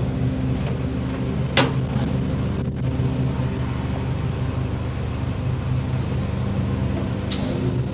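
Garbage truck engine running steadily, with a sharp knock about a second and a half in and a short burst of hiss near the end.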